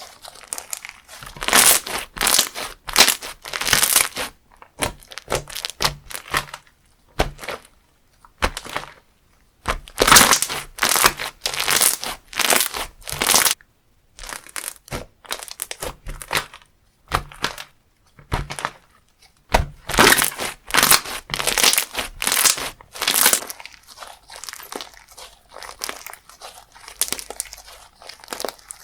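Crunchy textured slime squeezed and pressed by hand, crackling and popping in repeated bursts with short pauses between squeezes.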